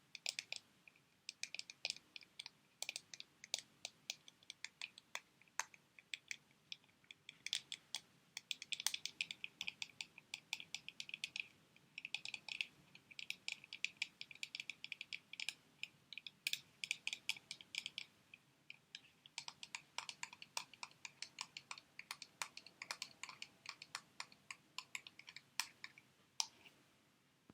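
Sheet-mask packets being handled close to the microphone: a run of small, sharp clicks and crinkles, sparse at first, then in dense flurries with short pauses between them.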